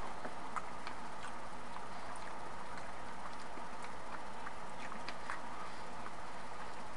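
A man chewing a bite of chicken sausage: faint, irregular small mouth clicks over a steady background hiss.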